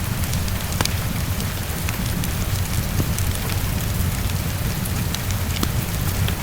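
Heavy rain falling steadily against a window over a low steady rumble, with scattered sharp crackles from a wood fire.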